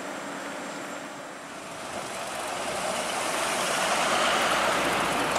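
A heavy vehicle's engine and road noise growing louder, peaking about four seconds in and then easing slightly.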